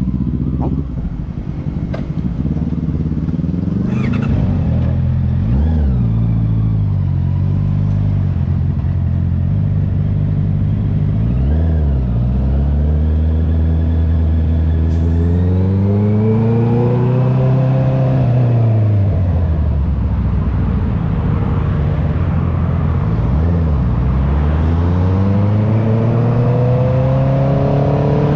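Honda CB650R's inline-four engine through an Akrapovic exhaust, pulling up through the revs and dropping back repeatedly as the bike rides on, with short dips in pitch at the gear changes.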